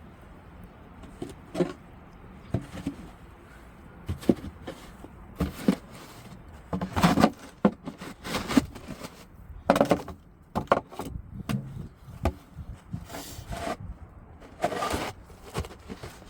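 Snow being shovelled: a dozen or so irregular scrapes and thuds of the shovel, the loudest about 7 and 10 seconds in.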